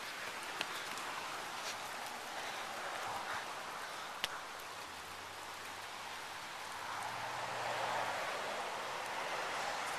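Heavy rain pouring down, a steady hiss of water with a few sharp taps of drops landing close by. It grows louder for a moment about seven seconds in.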